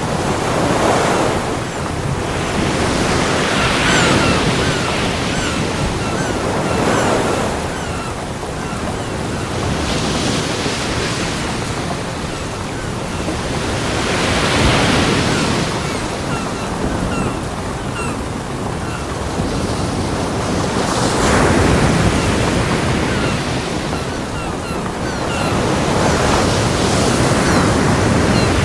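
Ocean surf breaking on a beach: a continuous wash of water with a louder wave surging in every few seconds.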